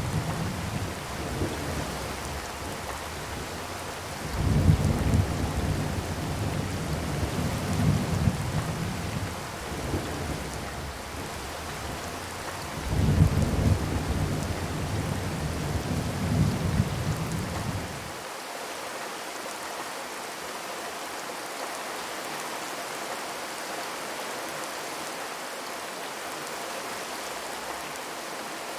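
Steady rain pattering on a zinc roof. Deep low rumbles come in three long spells over it and stop about two-thirds of the way through, leaving only the even rain.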